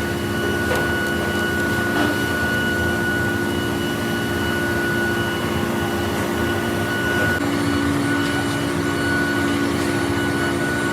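Metalworking machine tool running steadily, with a constant whine over a mechanical rumble. Its tones shift to a new pitch about seven seconds in.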